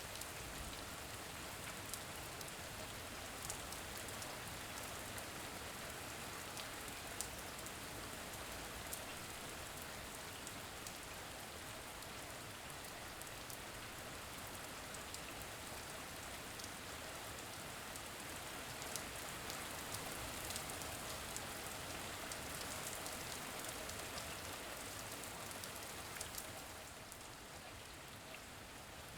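Steady rain falling, with scattered sharp drop ticks over an even hiss; it eases slightly a few seconds before the end.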